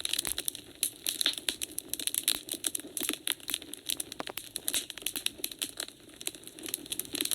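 Wood fire crackling in a fireplace, a dense run of rapid, irregular snaps and pops.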